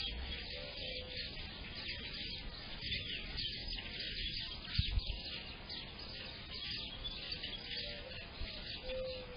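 Many small songbirds chirping and twittering without a break. A few soft low coos, typical of a mourning dove, come in near the start and again near the end. There is a low thump about five seconds in.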